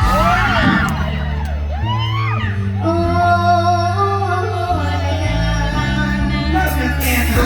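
Amplified mor lam band music with singing: a melodic line held and sliding over a bass that steps between notes.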